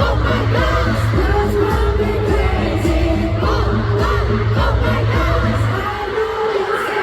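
Loud live K-pop song over a concert sound system, with a heavy steady bass beat, singing and the crowd singing along and yelling; the beat drops out near the end.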